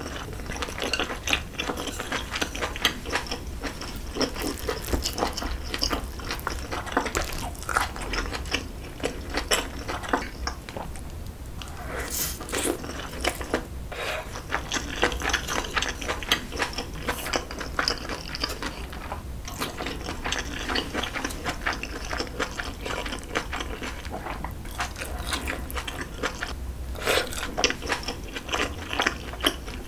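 Close-miked mukbang eating sounds: wet chewing and mouth smacking of braised aged-kimchi and pork back ribs with rice, a steady run of small clicks with a few brief lulls.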